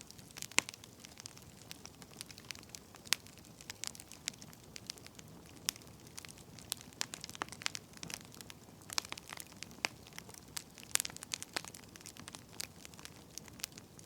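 Burning firewood crackling: irregular sharp pops and snaps, sometimes several close together, over a soft steady hiss.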